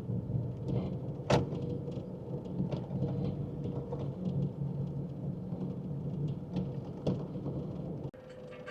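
Car running on the road, heard from inside the cabin: a steady low engine and road rumble with a few sharp knocks, the loudest about a second in.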